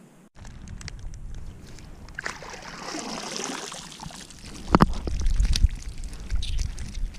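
Water sloshing and splashing with scattered clicks and knocks; a sharp knock about two-thirds of the way through is the loudest sound, followed by low rumbling.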